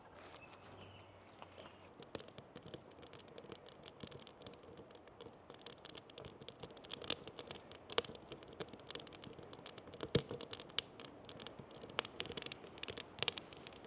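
Wood fire crackling and popping: a dense, irregular run of small crackles over a faint hiss, growing busier from about two seconds in, with a few sharper pops near the middle and end.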